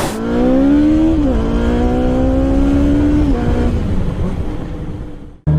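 Vehicle engine accelerating through the gears: its pitch climbs, drops at a shift about a second in, climbs slowly again, drops at a second shift after about three seconds, then fades away. The sound breaks off abruptly near the end.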